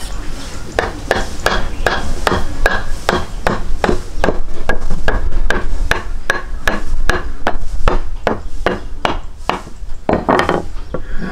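A long run of evenly spaced sharp knocks, about three a second, each with a brief ring, over a steady low rumble.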